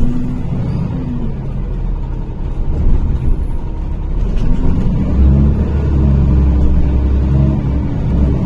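NefAZ-5299 city bus running, heard from inside the cabin: a steady engine rumble with a whine. About four seconds in, the whine rises in pitch and the rumble grows as the bus picks up speed.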